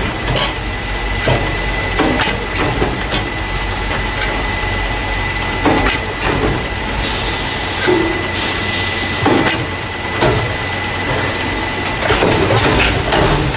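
A carton case packer, loading paper drink cartons into plastic crates, running steadily. There is a low hum with a constant high tone, clattering knocks every second or so, and a burst of hiss about seven seconds in.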